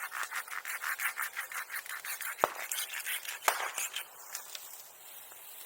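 Hand saw cutting through wood in quick, even back-and-forth strokes that stop about four seconds in. Two sharp cracks come a second or so apart in the middle.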